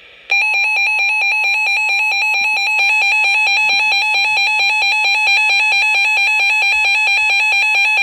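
Weather alert radio sounding its alarm for a newly issued winter storm warning: a loud electronic tone that switches rapidly between two pitches at an even pulse, starting a moment in.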